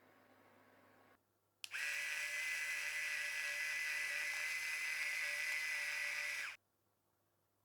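Small battery-powered electric sesame grinder running for about five seconds with a steady high whine, then cutting off suddenly.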